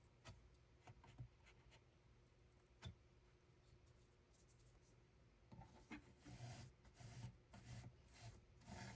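Faint scratchy rubbing and scattered light clicks of hands at work, growing busier from about halfway through.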